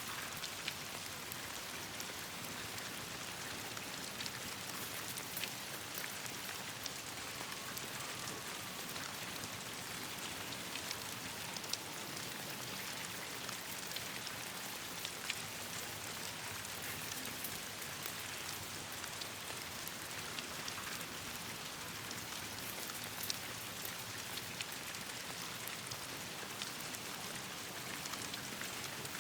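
Steady rain falling, with many scattered sharp ticks and small pops.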